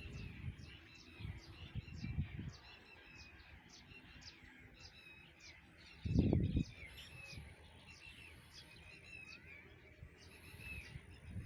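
Small birds chirping over and over, short falling notes about one or two a second. A low rumbling thump about six seconds in.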